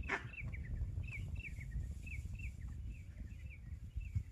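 A bird calling over and over with short, falling chirps, often in quick pairs, over a steady low rumble from wind on the microphone.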